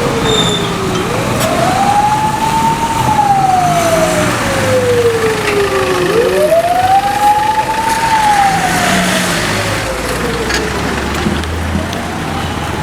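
Emergency-vehicle siren on a slow wail: each cycle rises quickly, then falls slowly over about four seconds. It repeats twice, with a fainter third rise starting near the end, over road traffic noise.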